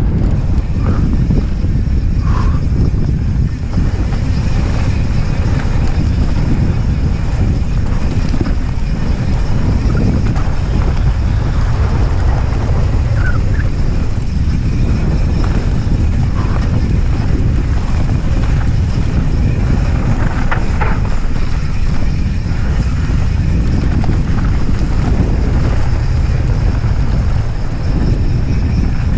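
Heavy wind buffeting the microphone over a steady low rumble and scattered clicks from an S-Works Stumpjumper 29 mountain bike riding fast down a dirt trail.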